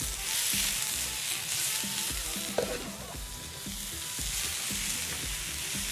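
Oil sizzling steadily on a wood-fired plancha plate as onions and button mushrooms fry. A spatula scrapes and taps against the plate now and then as the food is turned.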